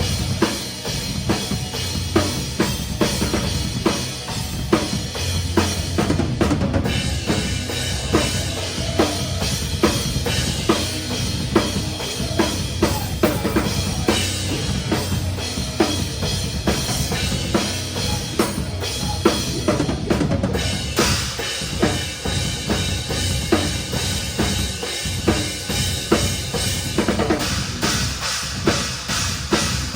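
Drum kit played hard in a live metalcore song, heard close to the kit, with fast bass drum and snare hits over the rest of the band.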